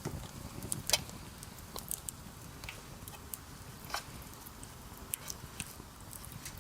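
Wood campfire crackling, with irregular sharp pops and snaps over a low rumble of the burning fire, a louder pop about a second in and another near four seconds.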